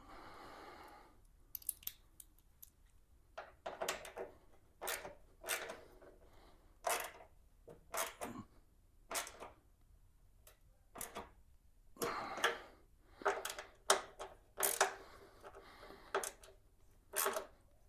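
Hand tools working the bolts of chrome wheel trim: a long run of short metallic clicks and clacks, roughly one every half second to one second, with a brief rustle in the first second.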